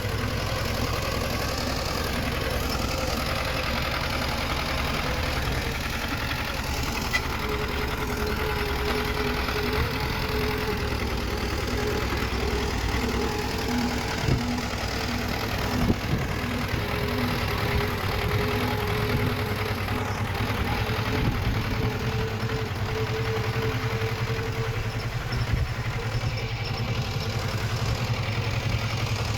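Diesel engine of heavy earthmoving machinery running steadily, with a few sharp clanks and a faint tone that comes and goes.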